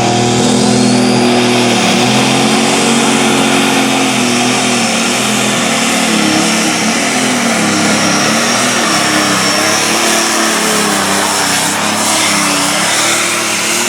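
Light limited pro stock pulling tractor's turbocharged diesel engine running at full throttle under load while pulling the sled, its pitch rising and falling as the load changes, with a faint high turbo whine in the middle.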